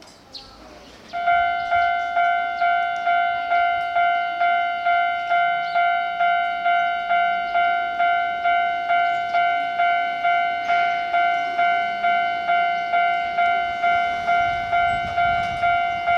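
Japanese railway level-crossing warning bell starting to ring about a second in. It gives an evenly repeated electronic ding, about two and a half strikes a second, as a train approaches or clears the crossing.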